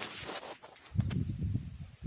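Footsteps and rustling: a brief hiss at the start, then irregular low thumps from about a second in.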